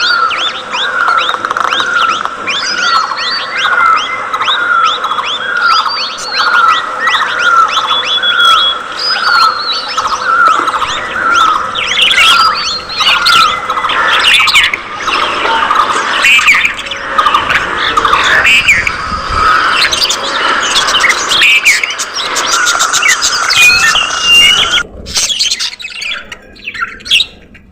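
A flock of budgerigars chirping and chattering, many calls overlapping, with one short call repeated about one and a half times a second for the first half. The chattering thins out near the end.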